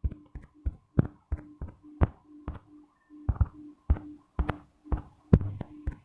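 Fingertip taps on a phone or tablet touchscreen while drawing, short sharp taps at uneven spacing, about two to three a second, over a faint steady hum.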